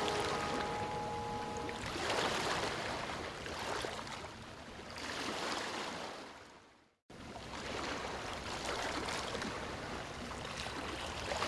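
Ocean waves washing in and drawing back, swelling and fading every few seconds, with a brief dropout to silence about seven seconds in.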